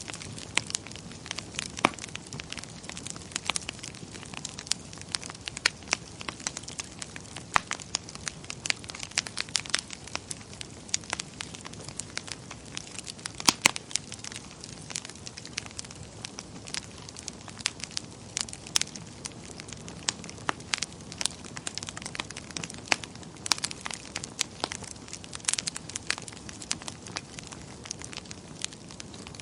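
Wood fire burning in a fireplace: a steady low hiss with frequent, irregular sharp crackles and pops, one of the loudest about halfway through.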